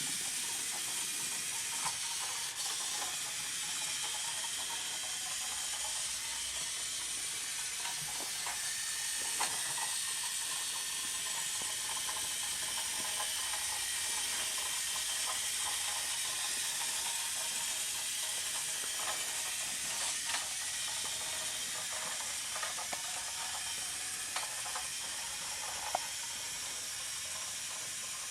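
Small electric drive motor and gearing of a Siku Control radio-controlled truck running, a steady high hiss with faint whine and scattered clicks.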